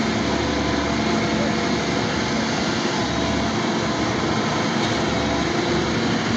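An engine running steadily, with a constant faint hum over an even rumble.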